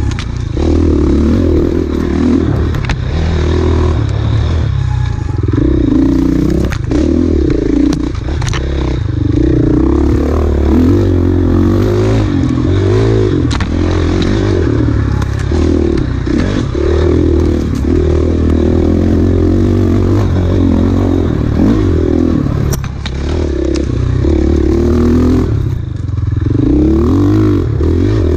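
KTM enduro dirt bike engine ridden hard off-road, its revs rising and falling every second or two, with occasional sharp knocks and clatter.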